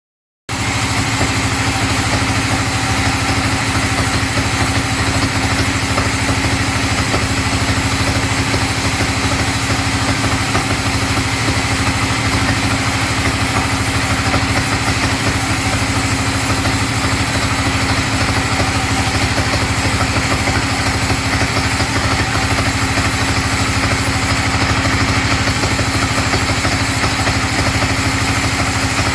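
A 42-inch sawmill bandsaw machine running steadily with a constant mechanical hum, starting about half a second in.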